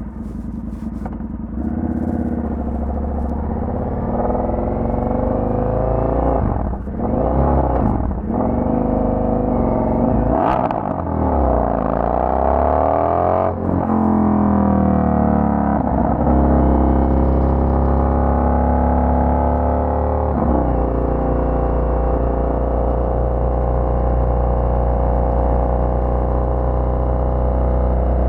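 Indian FTR 1200's V-twin engine through a Toce aftermarket exhaust, pulling through the gears. The engine note rises and drops several times in the first half, then settles into a steady cruise.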